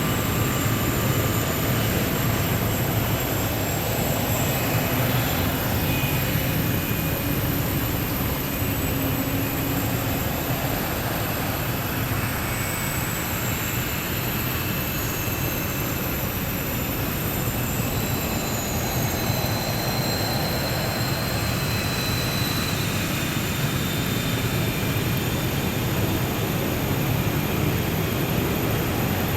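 Heavy military vehicles driving past in a column, a steady, loud, unbroken rumble of engines, with faint high whines that glide in pitch.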